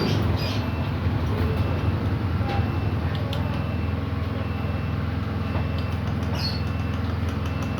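A steady low machine hum runs throughout, with scattered light metallic clicks of hand tools on engine parts.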